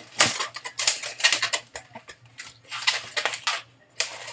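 Latex modelling balloons squeaking and rubbing against each other as they are twisted, in many short, irregular strokes.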